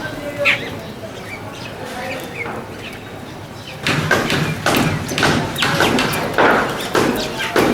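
A flock of wild birds at a balcony feeder: scattered short chirping calls, then from about halfway a run of sharp thuds, two or three a second.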